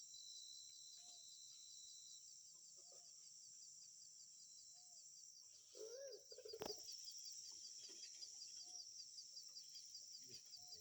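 Faint steady insect chirring with a fast, even pulse, over soft, short bird calls repeated every second or two. A louder call comes about six seconds in, followed at once by a sharp click.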